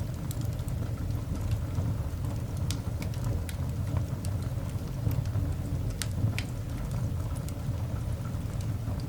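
Coal fire burning in a cast iron dog grate: a steady low rumble with scattered sharp crackles and pops, a few louder pops about three and six seconds in.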